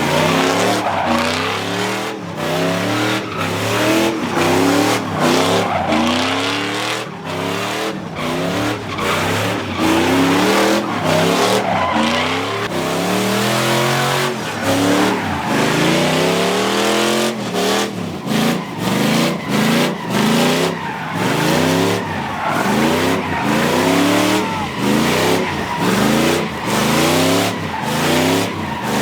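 A car doing donuts: its engine revs up again and again in quick rising sweeps, roughly once a second, while the tires squeal and skid on the pavement. The revving comes in sharper, choppier bursts in the second half.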